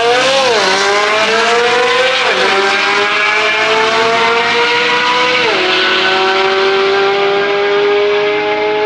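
Drag race between a Corvette Z06 and a Ferrari, launched hard down the strip. One loud engine note climbs steadily and drops sharply at each upshift, about half a second, two and a half and five and a half seconds in, then keeps climbing as it pulls away.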